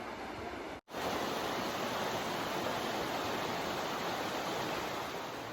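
Steady rushing of a flowing river, with a brief total dropout a little under a second in, after which the water comes back slightly louder.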